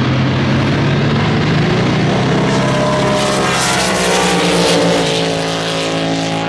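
Drag race boat engine running hard. Its pitch climbs for a couple of seconds, then drops lower about five seconds in.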